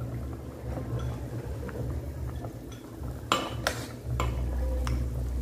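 Wooden chopsticks clicking and tapping against a ceramic bowl while eating, with two sharper clinks a little past three seconds in. A steady low hum runs underneath.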